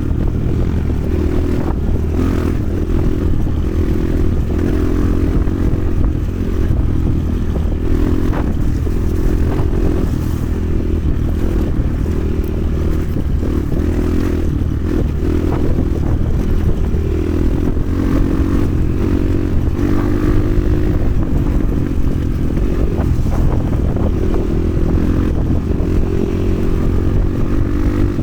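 Motoland XR 300 Lite enduro motorcycle engine running under way, its revs rising and falling every second or two as the bike is ridden, with occasional short knocks and rattles.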